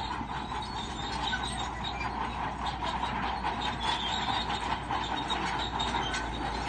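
Crawler bulldozer working, its diesel running steadily under a dense, continuous clatter and squeal of steel tracks.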